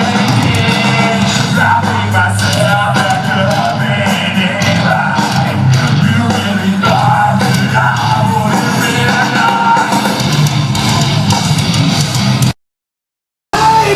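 Live hard rock or metal band playing loud, with a singer, guitars and drums, recorded from the audience. The sound cuts out completely for about a second near the end, then the band comes back.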